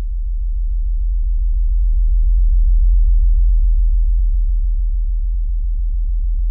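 A loud, very deep steady drone that swells up and then slowly eases off.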